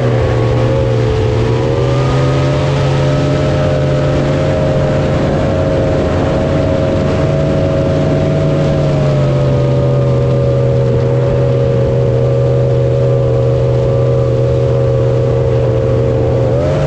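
Engine running steadily at speed, with a strong low hum and a pitch that rises and falls slightly.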